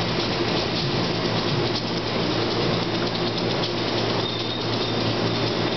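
NJ Transit Multilevel passenger train rolling slowly along the station platform: a steady rush of running noise over a low, even hum from the train's equipment.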